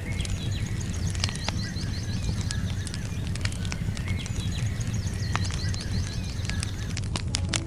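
Wood fire burning: a steady low rumble of flames with frequent sharp crackles and pops from the firewood. Faint high chirping sounds in the background.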